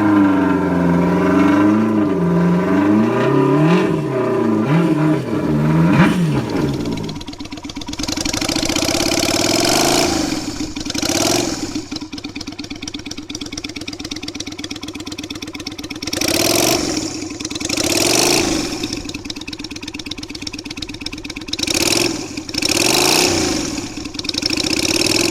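Engines revved through loud aftermarket exhausts, in two clips. For the first seven seconds one engine is blipped up and down quickly. Then the sound cuts to another engine running steadily between short, sharp throttle blips.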